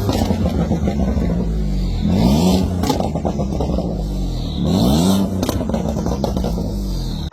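BMW E90 335i with a side-exit exhaust free-revving in three quick blips, each a fast rise and fall in pitch, with sharp pops on the overrun.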